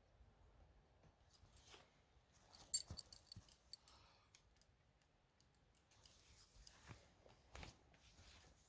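Scattered faint clicks and light knocks, the loudest a sharp click about three seconds in, with a few more near the end.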